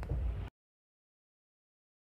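Low rumble of a moving passenger train heard from on board, cut off abruptly about half a second in, then dead silence.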